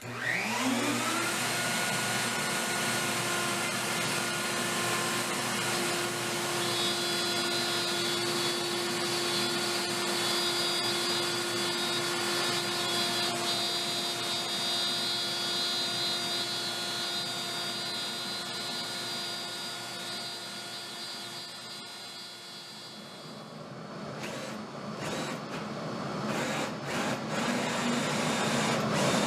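Electric motor of a workshop power tool switching on, whining up to speed within the first second and then running steadily with a rasping hiss. After about 23 seconds the sound eases off and turns rougher, with a few sharp knocks, before rising again.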